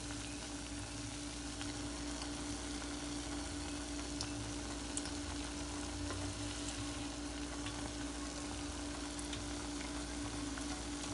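Okra and egg fritters frying in hot oil in a pan: a steady sizzle with scattered small pops.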